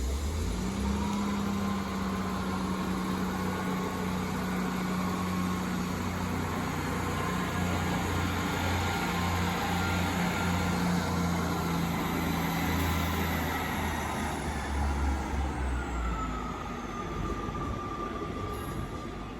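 A diesel train's engine running with a steady low drone, then a whine that falls in pitch near the end as the engine eases off.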